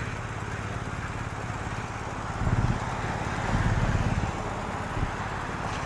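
Motor vehicle engines running close by in traffic, a steady low rumble that swells twice as vehicles pass.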